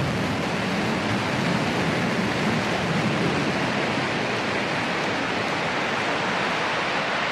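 Blue Origin New Shepard booster's BE-3 hydrogen-fuelled rocket engine firing during its landing burn: a steady, even rushing roar.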